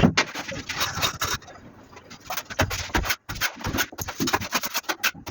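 Plastering trowel scraping and rubbing plaster on a wall in short, irregular strokes.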